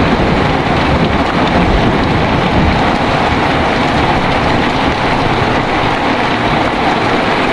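Heavy rain pouring steadily, with a low rumble of thunder dying away over the first few seconds.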